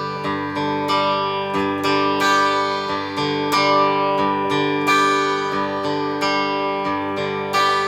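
Acoustic guitar playing an instrumental break with no singing: picked notes in a steady rhythm over ringing bass notes.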